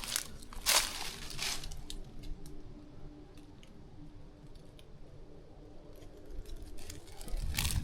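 Footsteps crunching and rustling through undergrowth: a few louder steps in the first second and a half, then scattered small clicks and snaps. A low rumble comes in near the end.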